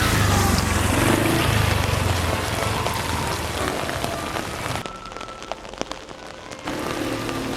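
Steady spring rain, with raindrops pattering on an umbrella overhead. A low rumble and a falling whine run through the first couple of seconds. The rain turns quieter and more muffled for a stretch about five seconds in, then picks up again.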